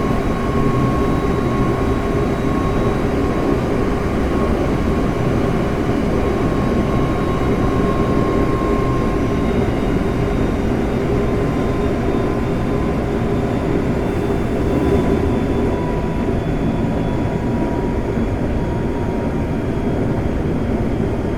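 Semboku Rapid Railway 5000 series electric train running at speed, heard from inside the passenger car: a steady rumble of wheels on track. A thin whine sits above the rumble and drops slowly in pitch.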